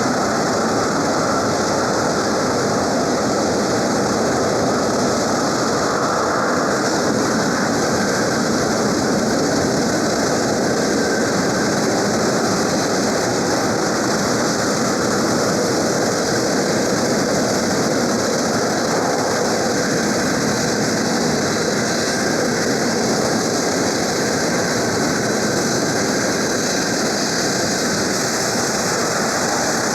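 Boeing C-17A Globemaster III's Pratt & Whitney F117 turbofan engines running on the ground: a loud, steady jet roar that holds unchanged throughout.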